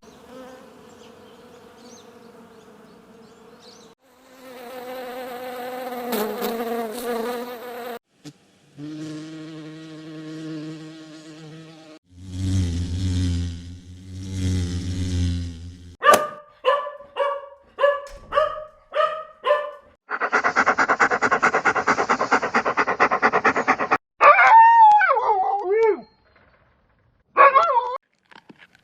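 Insects buzzing steadily in several short stretches: bees and flies. After that comes a sequence of animal calls, including a run of about eight dog barks roughly two a second and some warbling, gliding calls near the end.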